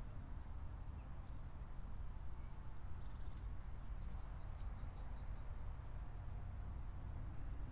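Small birds chirping: scattered high chirps, and a longer run of quick chirps about four seconds in, over a steady low rumble.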